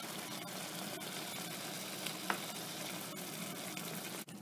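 Chopped tomatoes sizzling steadily in hot oil and onion masala in a frying pan as a spatula stirs them, with one light click about two seconds in. The sizzle stops abruptly just before the end.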